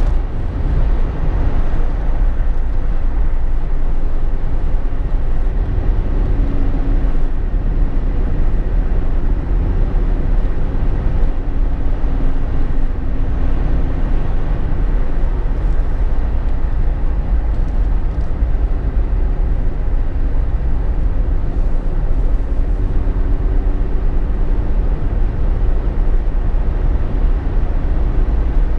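Steady road and engine drone heard from inside a Jeep Wrangler JK's cabin while driving, mostly a deep rumble, with a faint hum that comes and goes twice.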